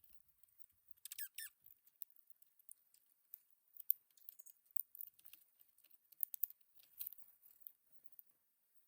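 Dark-eyed juncos pecking and cracking seed at a feeder: a faint scatter of small, sharp, irregular ticks, with a short high chirp about a second in.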